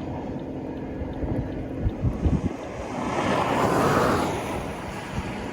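Road noise inside a moving vehicle, with low rumble and a few bumps. A rushing whoosh of wind or a passing vehicle swells up and dies away about three to four seconds in.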